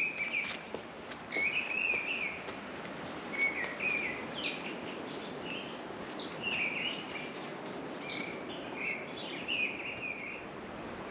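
Songbird singing outdoors in short warbling phrases about every second, with a few sharp high notes that drop in pitch, over a steady background rush.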